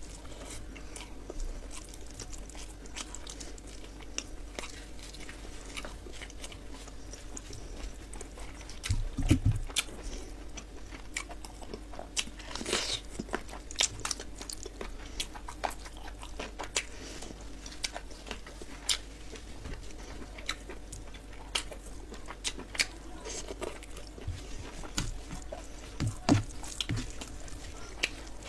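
Close-miked eating sounds: chewing with irregular wet mouth clicks and smacks as handfuls of rice and curry are eaten by hand, with a few louder smacks now and then.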